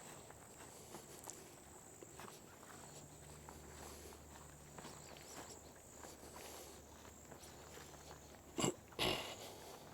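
Faint footsteps of a hiker walking a trail, under a steady high insect buzz. Near the end comes a sharp knock followed by a short rustling burst.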